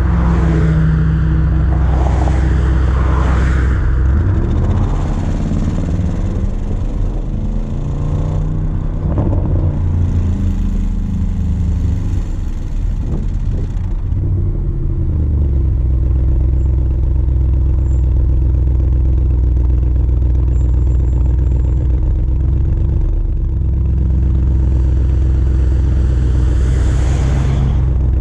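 Exhaust of a 2020 Audi RS Q8's twin-turbo V8 with all three resonators deleted, running with a deep, loud drone. Its pitch climbs and falls through the middle, then it settles into a steady low drone, with a brief swell near the end.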